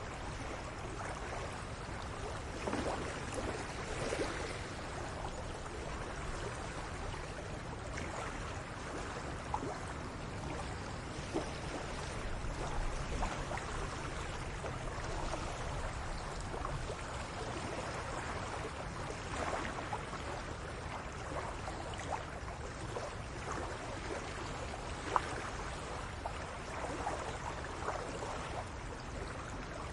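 Steady outdoor ambience with a watery rushing hiss and a low rumble, broken by a few faint clicks and knocks, the sharpest about 25 seconds in.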